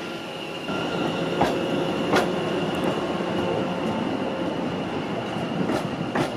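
A train running past on the rails, getting louder about a second in, with a steady high whine and several sharp clacks of the wheels over rail joints.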